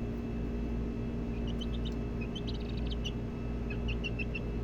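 Birds chirping in quick runs of short high notes, starting about a second and a half in, over a steady low hum.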